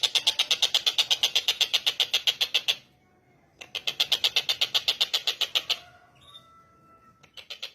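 A tengkek buto, a kingfisher, calling in rapid runs of harsh chattering notes, about a dozen a second. A long run breaks off, a second run follows after a short pause, and a softer third run starts near the end.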